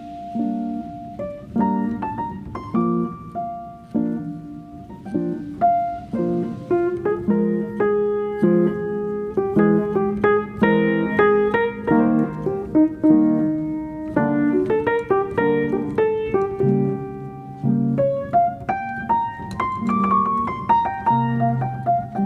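Calm solo piano music, a soft melody over steady, repeating low chords.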